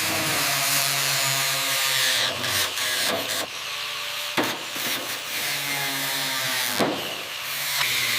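A motor-driven power tool running steadily, a humming tone with a hiss over it, with two sharp clicks about halfway through and near the end.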